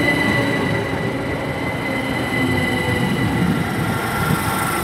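Class 387 electric multiple unit running slowly into the platform as it comes to a stop, with a steady electrical whine over wheel rumble and a light squeal.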